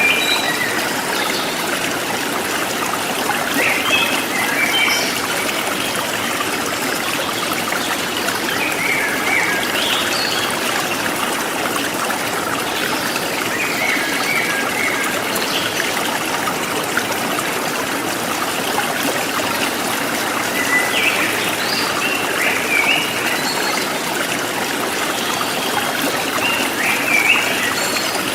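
River water flowing and trickling steadily. Brief higher notes stand out every few seconds.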